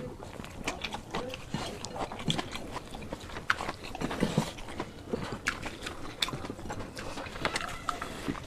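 People eating quickly with their mouths close to the microphone: chewing and biting, with many irregular small clicks and smacks.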